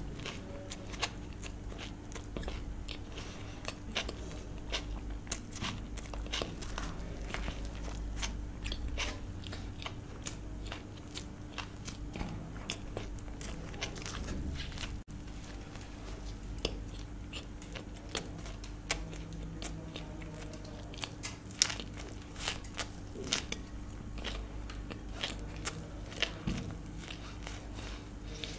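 Close-miked eating: chewing and biting food, with many small sharp mouth clicks and crunches throughout, over a steady low hum.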